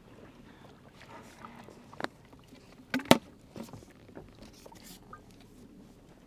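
A few short sharp knocks over a quiet background: one about two seconds in, then two close together about three seconds in, the second the loudest.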